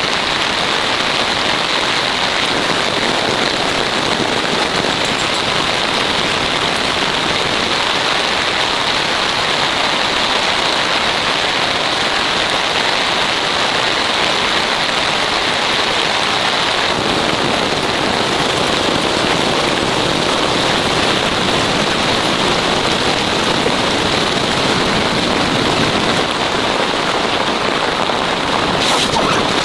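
Heavy rain falling steadily, fuller and deeper from about halfway through.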